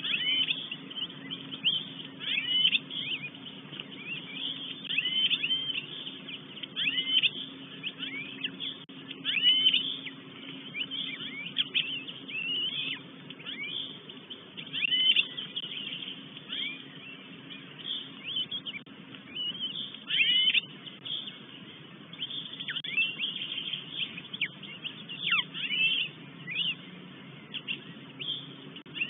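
Forest birds calling repeatedly with short, high chirps that slide downward, one every second or two, over a steady low hum.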